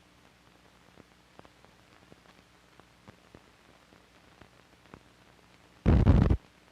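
Faint hiss and low hum with scattered soft pops and clicks, the run-out of a 16mm film's soundtrack, then a loud half-second burst of noise near the end.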